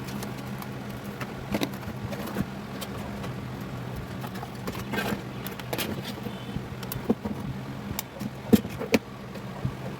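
Scattered clicks and taps of tools and parts on a car stereo being taken apart, the loudest a couple of sharp knocks near the end, over a steady low hum.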